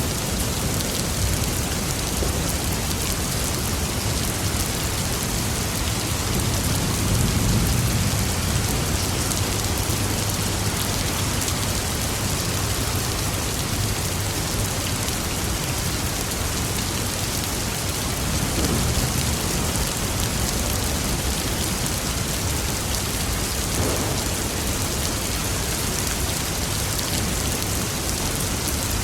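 Steady rain falling and pattering on surfaces, with a low roll of distant thunder swelling about a quarter of the way in and a fainter rumble past the middle.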